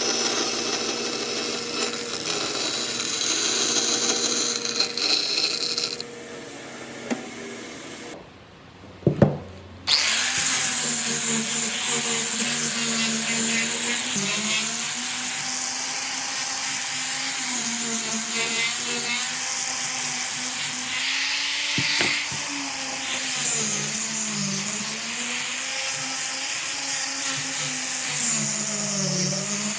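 Power tools working wood. Harsh cutting noise comes first, then it stops with a sharp click. From about a third of the way in, an electric motor hums steadily, its pitch dipping and recovering again and again as the tool is loaded.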